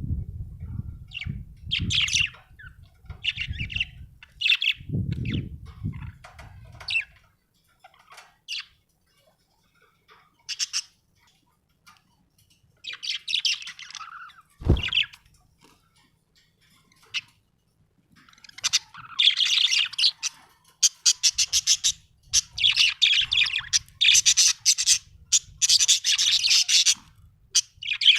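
Budgerigar chirping and chattering in short, scattered bursts, turning into near-continuous rapid warbling chatter about two-thirds of the way through.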